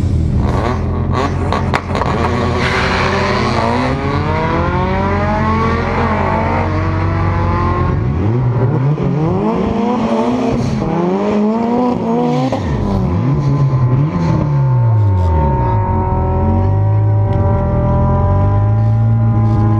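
Drag car engine idling, then revved up and down several times in a row before settling back to idle. Rising engine notes of other cars accelerating are heard under it in the first few seconds.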